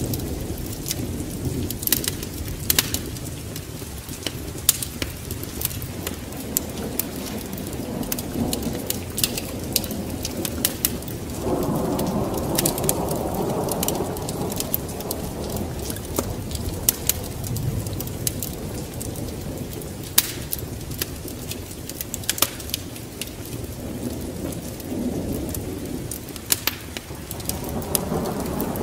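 Wood fire crackling with scattered sharp pops, over a steady bed of rain and low rumbling thunder. About eleven seconds in, a louder rush swells for two to three seconds.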